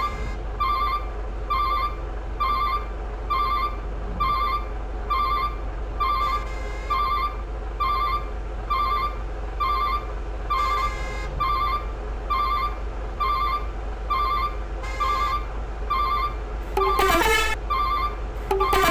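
An electronic warbling beep repeats about every 0.8 seconds over a steady low rumble. Two louder horn-like toots come near the end.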